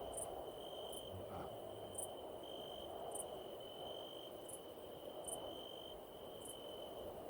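Faint night ambience of crickets chirping: a steady high trill with short, higher chirps about once a second, over a soft low hiss.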